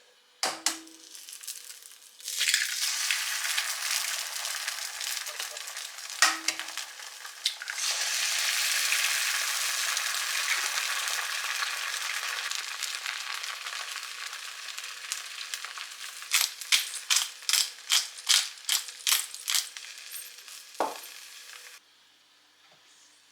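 Food sizzling in a hot frying pan, starting loud about two seconds in and dying away near the end, with a utensil knocking and clacking against the pan, in a quick run of about a dozen strokes toward the end.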